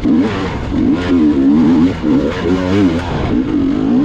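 Gas Gas EX 300 two-stroke dirt bike engine revving up and down repeatedly as the throttle is worked over loose rocks.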